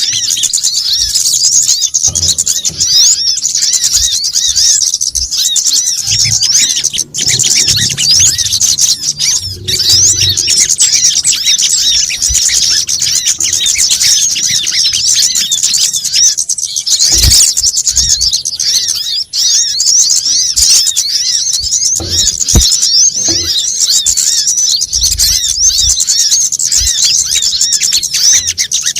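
Dense, continuous high-pitched chirping and chittering of small birds, many calls overlapping. This is a bird-lure recording meant to draw kemade, sogon and kolibri kelapa (brown-throated sunbird). A few faint low thumps sound underneath.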